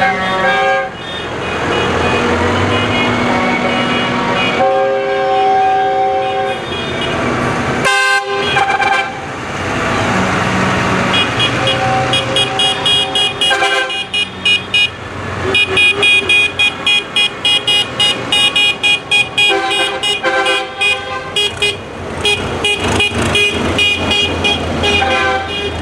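Tractor horns honking over running tractor engines: long held horn blasts early on, then, from about halfway through, rapid repeated toots in quick succession.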